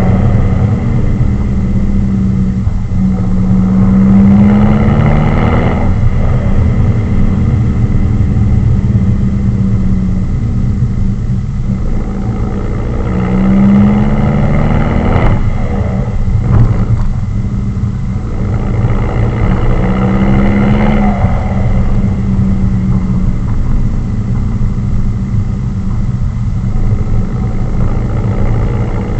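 Straight-piped Ford C-MAX exhaust while driving: a loud, steady engine drone whose note rises briefly three times as it accelerates.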